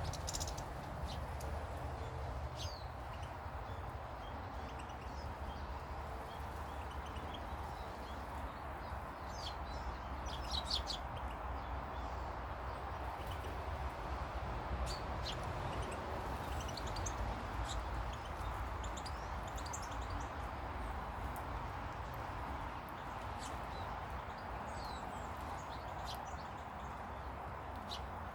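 Small birds chirping and calling in short, scattered bursts of high notes over a steady low background rumble.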